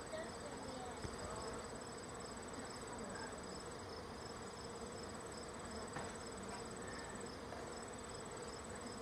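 Honey bee swarm buzzing steadily, with a thin, steady high trill over the buzz.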